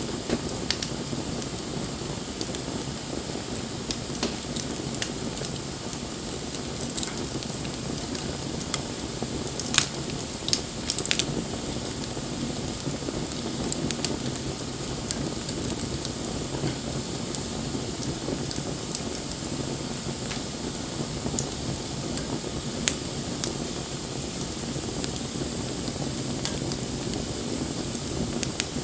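Wood bonfire burning: a steady rushing hiss with scattered sharp crackles and pops, the loudest cluster about ten seconds in and another single pop a little past twenty seconds.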